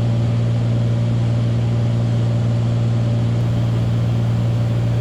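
Cabin drone of a Beechcraft Bonanza's single piston engine and propeller in cruise flight: a loud, steady low hum that holds even.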